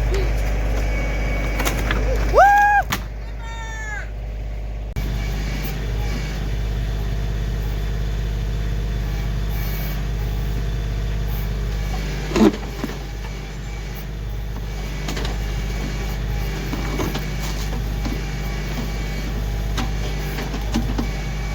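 Kioti CK2610 compact tractor's diesel engine running steadily while it works the backhoe. A short rising squeal comes about two and a half seconds in, and a single sharp knock about halfway through.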